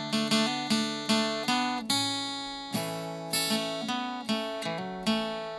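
Acoustic guitar playing an instrumental passage, chords struck in a steady rhythm, each ringing out and fading, with one longer-held chord about two seconds in.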